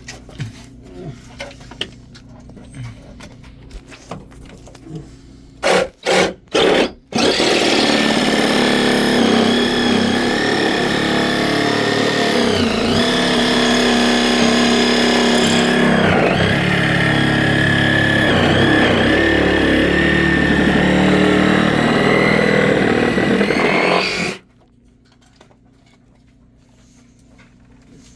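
Electric drill boring a hole: three short trigger pulses, then a long steady run of about seventeen seconds. Its pitch dips twice as it bogs down under load, and then it stops suddenly.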